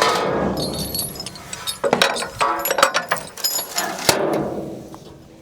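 Tow chain and steel J-hooks clinking, rattling and knocking as they are hooked onto the old bus: a string of irregular metallic clinks with a ringing top, the sharpest knocks about two and four seconds in.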